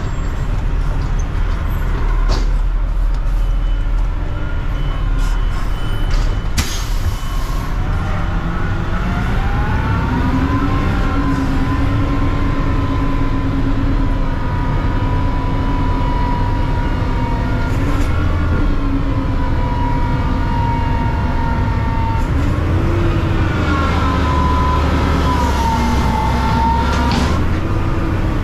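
Mack CNG garbage truck's engine running with a steady low rumble. About a third of the way in it rises in pitch to a higher, steady speed with a whine, then dips and rises again twice near the end. A few short knocks and clanks come through.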